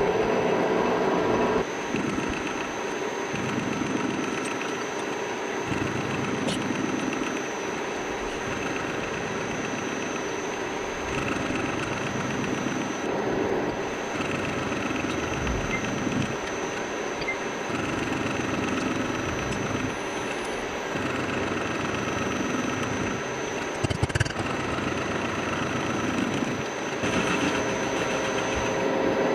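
Metalworking machine tool running steadily, with a faint high whine throughout and a brief knock about 24 seconds in.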